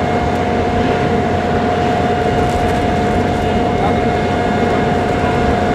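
Aircraft engine noise running steadily, with a constant whine held throughout.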